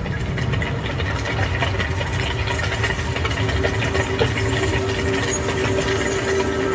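Sound-designed machinery soundscape: a dense, steady low engine-like rumble with a held hum and many scattered clicks and rattles.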